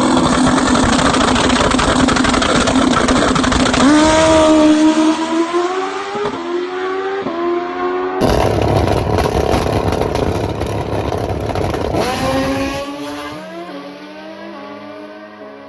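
Drag racing motorcycle engine at full throttle down the strip, its pitch climbing in steps with brief drops at each upshift. There is an abrupt cut to a second run about eight seconds in, again with stepped upshifts, and the engine fades as it pulls away near the end.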